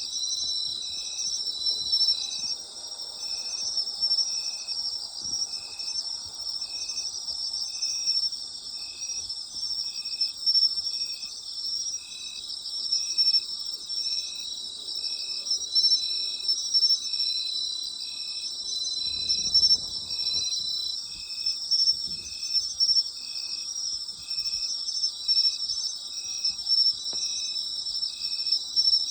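Night chorus of autumn crickets: a steady, dense high-pitched trilling, with one insect chirping at a lower pitch in an even rhythm, about once a second. A brief low rumble comes about two-thirds of the way through.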